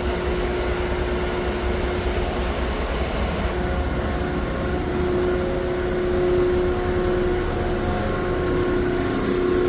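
Steady mechanical hum with a low rumble and a held mid-pitched tone that swells slightly partway through and again near the end.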